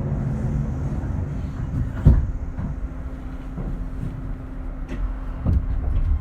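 Inside an Astram Line 7000-series rubber-tyred guideway car: a steady low rumble with a hum. There is one sharp knock about two seconds in and lighter knocks near the end.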